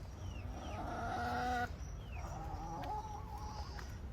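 Chickens clucking and calling, with two drawn-out calls, the first cut off suddenly near the middle.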